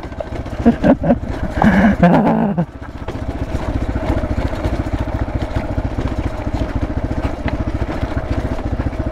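Dirt bike engine running steadily at an even, rapid chug while the bike rolls slowly over a rough stone track. A voice sounds over it for the first two or three seconds.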